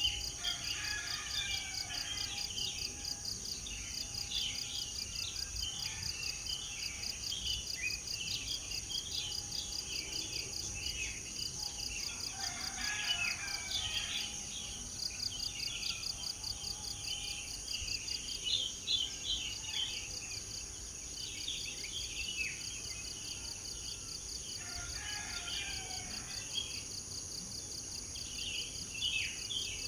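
Many small birds chirping and trilling over a steady, fast-pulsing chorus of insects such as crickets or cicadas. Busier flurries of calls come about a second in, near the middle and near the end.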